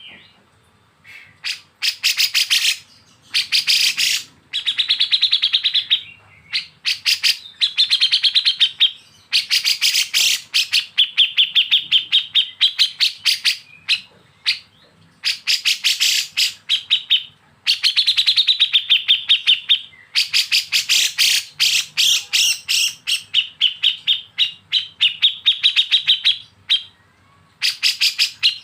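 Bulbuls (kapas tembak and cucak jenggot) giving 'besetan' calls: rapid rattling trains of short, high chattering notes, about ten a second, in bouts of one to three seconds with short pauses between.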